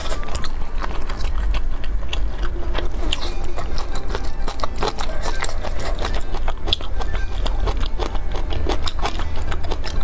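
Close-miked chewing of a mouthful of spicy skewered meat: many small, sharp, wet clicks and crunches through the whole stretch, over a steady low hum.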